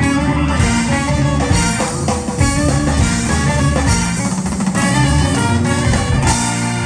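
Live band playing an instrumental passage, with the drums prominent; the full band comes in suddenly and loudly at the start.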